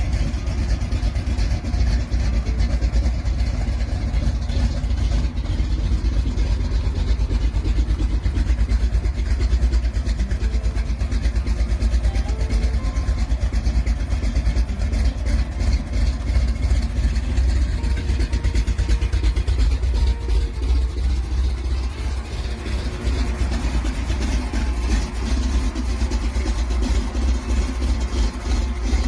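Chevrolet 350 small-block V8 in a 1965 Rambler 330, running with a strong, steady low rumble.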